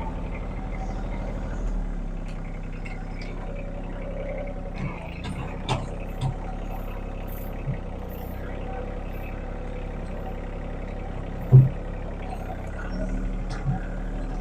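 Engine of heavy land-clearing machinery running steadily at a low drone, with several short clunks and knocks. The loudest knock comes about two-thirds of the way through.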